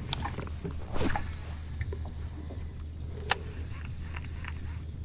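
Insects chirping in a steady, evenly pulsing high buzz, with scattered small clicks and splashes on the water and one sharp tick about three seconds in.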